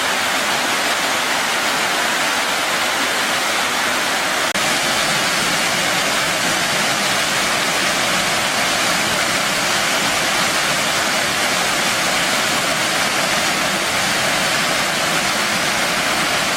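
Mountain valley stream rushing steadily over rocks, a constant even rush of water.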